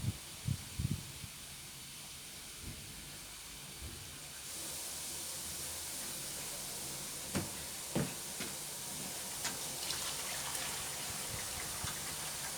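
Water running steadily into a washing machine through its detergent drawer, a hiss that gets louder about four and a half seconds in. A couple of light knocks come near the middle.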